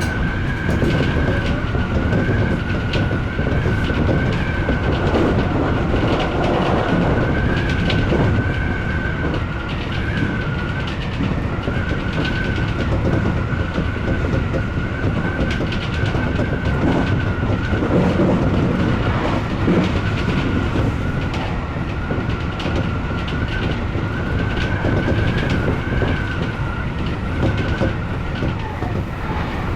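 Odakyu electric commuter train running along the track: a continuous rumble of wheels on rail with frequent clicks, and a steady high whine that wavers slightly in pitch.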